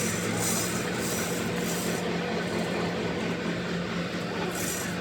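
A machine humming steadily, with a rasping hiss over it for the first two seconds and again briefly near the end.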